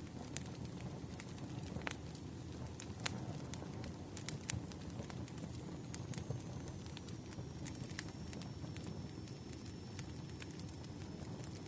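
Wood fire crackling: a steady low rumble with irregular sharp pops and snaps, several every second.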